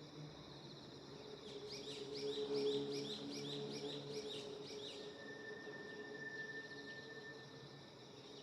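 Outdoor nature ambience: a steady high drone of insects, with a run of about ten quick rising chirps from a small bird between roughly one and five seconds in, followed by a thin steady whistle-like tone lasting a few seconds.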